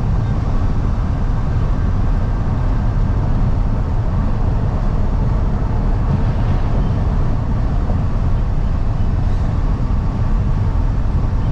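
Steady road noise of a box truck cruising at highway speed, heard from inside the cab: engine, tyre and wind noise together, heaviest in the low end.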